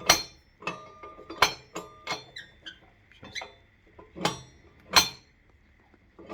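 Metal parts of a cast-iron stove's air-control regulator being worked by hand: a series of sharp metallic clicks and clinks at uneven intervals, some leaving a brief ring.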